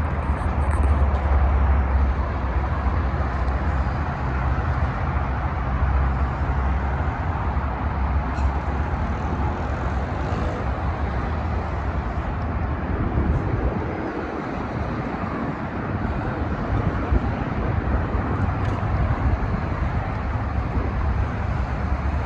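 Steady outdoor road-traffic noise with a heavy low rumble that eases briefly partway through.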